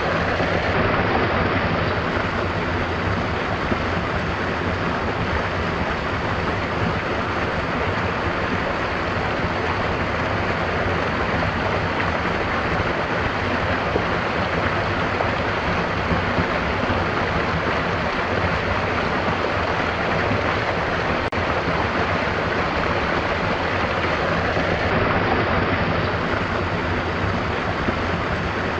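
Stream water rushing and babbling steadily, an even unbroken wash of sound.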